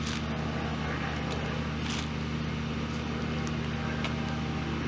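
Steady low hum, with a few faint short scuffs about two seconds apart.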